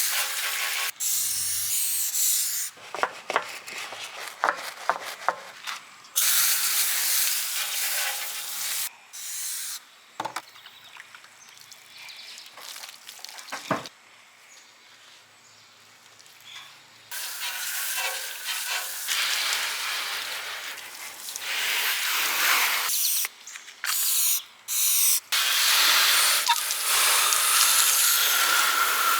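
Water spraying onto a car's body in long bursts that start and stop, with quieter gaps holding scattered clicks and handling noises.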